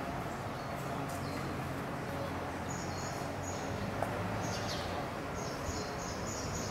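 Steady outdoor background noise with short, high bird chirps repeating through the second half, and a single small click about four seconds in.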